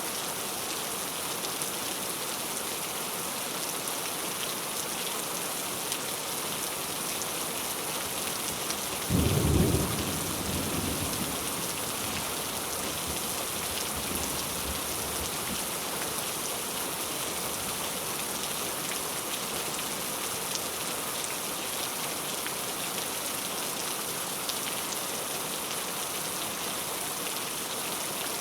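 Heavy, steady rain, with a single clap of thunder about nine seconds in that rumbles away over the next few seconds.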